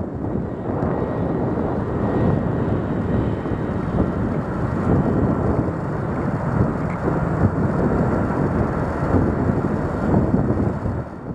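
Low, fluctuating rumble of a jet aircraft's engine, mixed with wind buffeting the microphone. It fades near the end.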